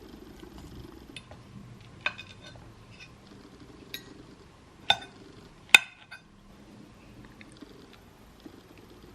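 Tableware clinking while being handled: several sharp, ringing clinks, the loudest about six seconds in, over a faint low background hum.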